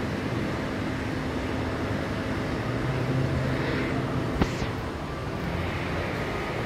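Steady indoor background hum with a low steady tone, broken about four and a half seconds in by one sharp click.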